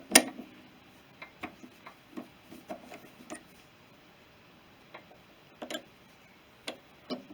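Metal clicks and knocks from a lathe chuck key and steel parts being handled while a workpiece is set up in a four-jaw chuck. One sharp knock comes just after the start, followed by light, irregular clicks and a few knocks near the end.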